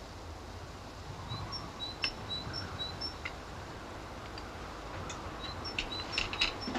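A small bird singing a repeated two-note phrase, high and low notes alternating, in two runs, over a steady background hiss. Now and then a light clink of cutlery on dishes, several in quick succession near the end.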